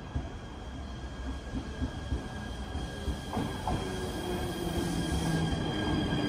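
A JR East 253-series limited-express electric train running into the platform, its running noise growing louder as it approaches and slows. About halfway through come two sharp clacks from the wheels passing over a rail joint, and a low steady hum builds toward the end.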